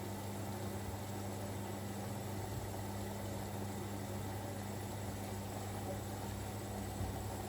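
Siemens Extraklasse XLS 140 A washing machine running early in a 90 °C boil-wash cycle, a steady even hum with no distinct knocks or changes.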